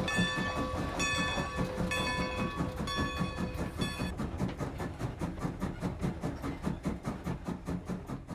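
Train sound effect: fast, steady rhythmic chugging of a train on the move, with a multi-tone train whistle blown in four blasts about a second apart that stop about four seconds in. The chugging fades out near the end.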